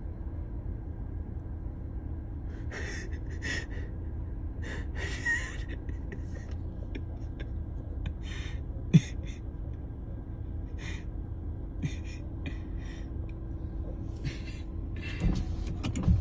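Low steady rumble of a parked car idling, heard from inside the cabin. Short rustles close to the microphone come and go over it, with one sharp click about nine seconds in.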